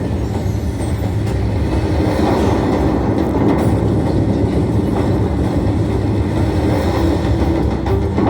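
Steady, loud low rumbling noise with a few faint scattered ticks.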